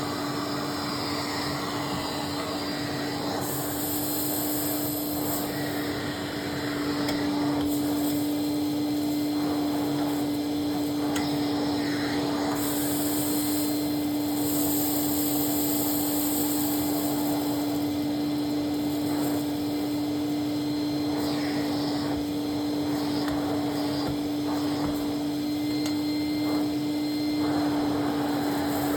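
Hoover Constellation canister vacuum cleaner running steadily, its motor giving a constant whine over the rush of air, with a high hiss that comes and goes a few times.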